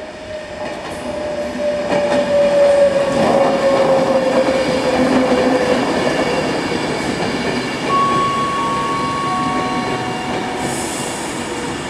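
A Class 390 Pendolino electric train pulls into the platform and slows. It gives a rumble that swells and then eases, with a whine falling in pitch as it decelerates. About eight seconds in, a few brief steady squeals sound as it comes to a stand.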